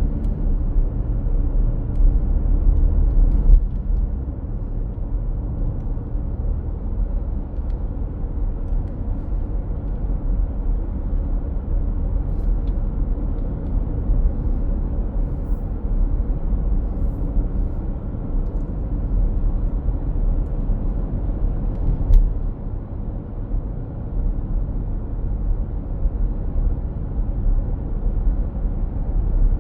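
Truck running, a steady low rumble of engine and road noise, with a sharp click about twenty-two seconds in.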